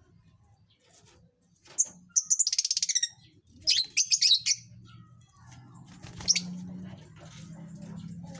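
Lovebirds chattering: a rapid run of shrill chirps about two seconds in, another burst a second later, and a single sharp call past the six-second mark. A low steady hum runs under the second half.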